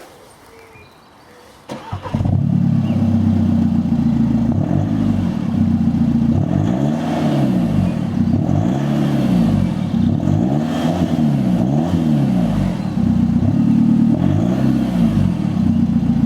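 Volkswagen T5 Transporter's 2.0 BiTDI diesel engine starting about two seconds in, then idling through a Milltek turbo-back exhaust with particulate filter bypass, revved up and back down in several short throttle blips.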